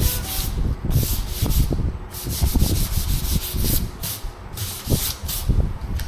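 Rapid scratchy rubbing strokes by hand against a car's painted body panel, about two a second with brief pauses, like scrubbing or sanding the paint.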